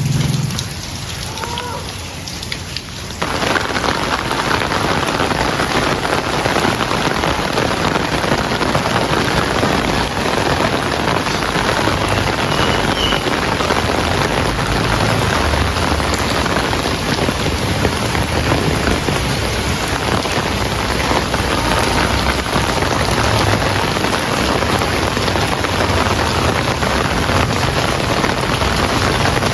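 Heavy rain pouring steadily, a dense even hiss with a low rumble underneath. It comes in suddenly about three seconds in, after a quieter stretch.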